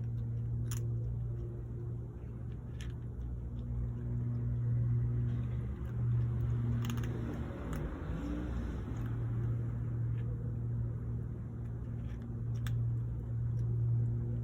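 Steady low mechanical hum, like a motor running, with a few faint sharp clicks over it.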